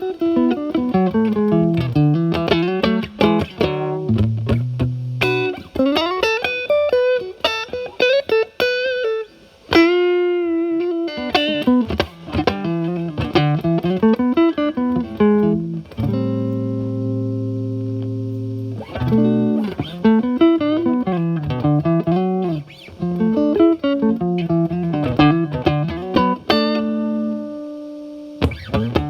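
Fender Stratocaster with alnico single-coil pickups played through a Paul Cochrane Timmy overdrive pedal, its gain at about nine o'clock, into the clean channel of a Marshall Valvestate amp. The guitar runs through quick single-note licks, with a note held with vibrato about a third of the way in, and chords left to ring about halfway through and again near the end.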